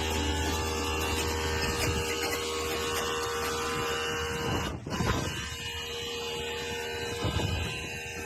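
Steady mechanical hum with several high, steady whining tones, briefly interrupted about five seconds in before it carries on.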